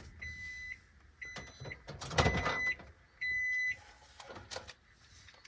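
Microwave oven end-of-cycle alarm: four electronic beeps, each about half a second long, about once a second, signalling that the heating stage is done. A louder knock lands about two seconds in, during the third beep.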